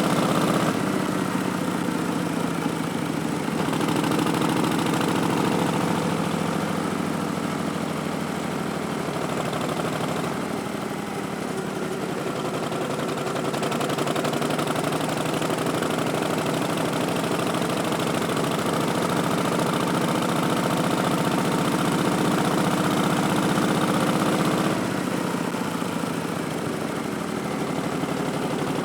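Harley-Davidson Street Bob's Milwaukee-Eight 107 V-twin running through Vance & Hines Twin Slash slip-on mufflers as the bike is ridden. The exhaust note rises and eases with the throttle, dipping about ten seconds in and again near the end.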